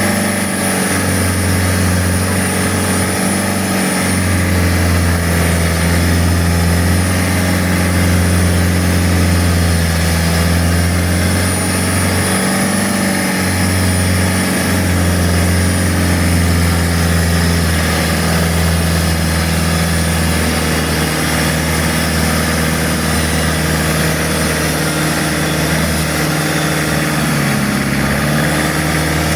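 A boat's engine running steadily under way, its pitch wavering slightly, over a steady rushing noise.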